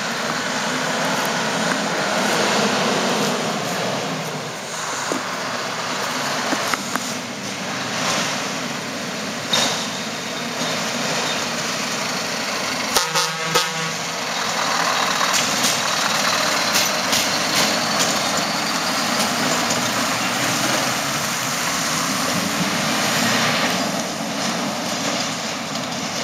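Scania R 620 truck's V8 diesel engine running, with a short, loud sound about halfway through.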